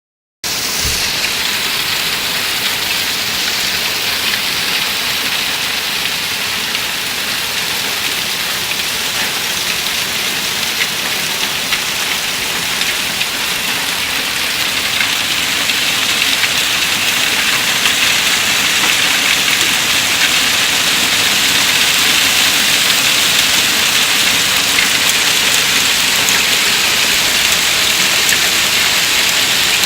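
Hail pelting down in a storm, a dense hiss of countless small impacts that grows louder about halfway through.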